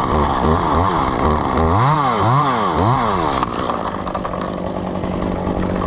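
Two-stroke chainsaw revved up and down over and over, then dropping to a steady idle a little over halfway through.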